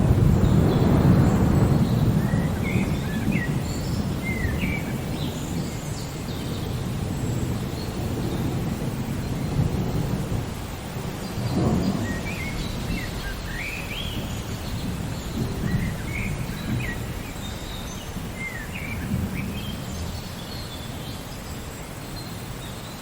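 Steady rain with rolling thunder. A long low rumble is loudest at the start and slowly dies away, and a shorter one comes about halfway through. Birds chirp on and off throughout.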